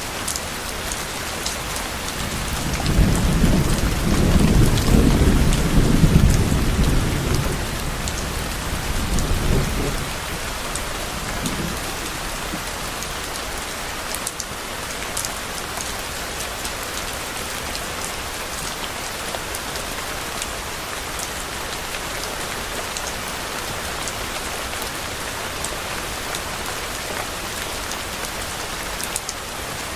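Steady rain falling, with a low rumble of distant thunder that swells about three seconds in and dies away by about ten seconds.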